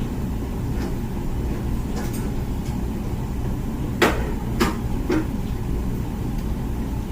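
Comfee dishwasher running its wash cycle with a steady low wash noise. About four seconds in come three sharp knocks roughly half a second apart, the first the loudest.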